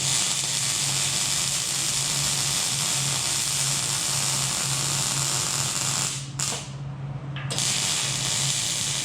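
Millermatic 212 MIG wire-feed welder arc sizzling steadily as a weld bead is laid. It breaks off briefly about six seconds in, then resumes for a second run and stops suddenly.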